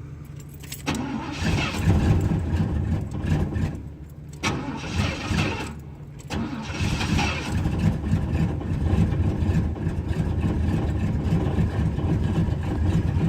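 Box-body Chevrolet Caprice engine on a below-freezing cold start, after the gas pedal has been pumped twice. It is cranked and fires in two short spells that falter about four and six seconds in, then catches and keeps running steadily.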